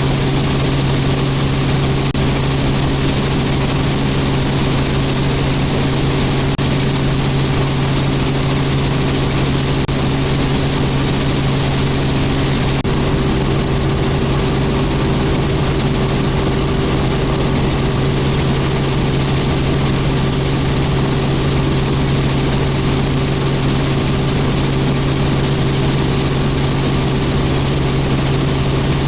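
Robinson R44 helicopter in steady flight: its engine and rotors make a constant drone with a strong, unchanging low hum.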